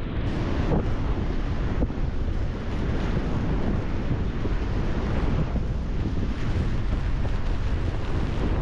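Strong gale-force wind buffeting the microphone in a heavy, rumbling roar, with a stormy sea's surf beneath it.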